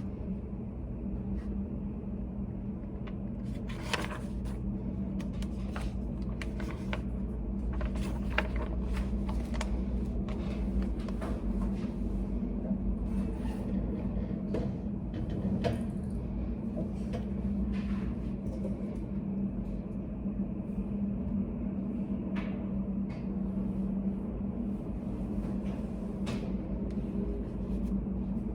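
Steady low hum of a study cafe's room ambience, with many light clicks and taps scattered through it, typical of someone studying at a desk.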